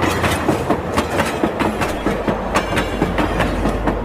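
Battery-powered toy train running, a fast, uneven clicking clatter.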